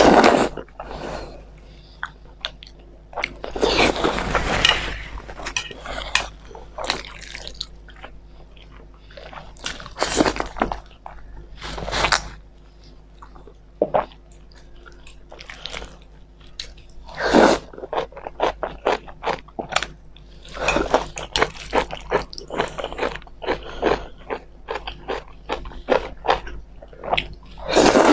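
Close-miked eating sounds: chewing and slurping of spicy instant noodles and boiled eggs, with many short wet smacks and clicks at an irregular pace.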